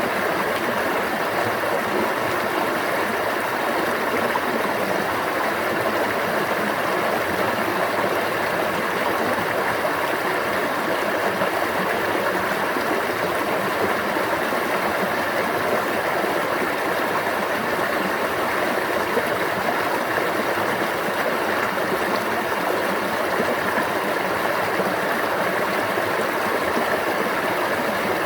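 Stream water running and babbling steadily, an unbroken rushing without changes.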